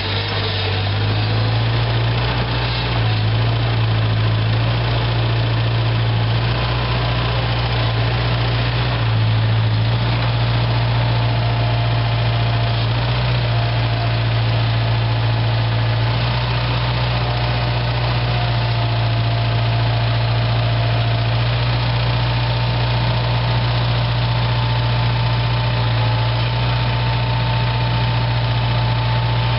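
Four-cylinder diesel engine of a Bobcat 743 skid steer idling steadily, with a faint thin whine above it.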